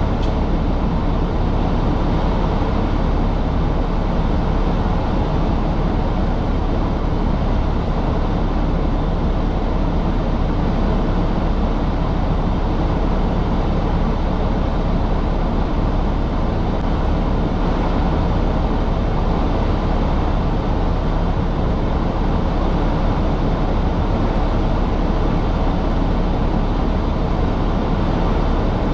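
Tractor-trailer truck running, a steady rumble of engine and road noise with no change through the stretch.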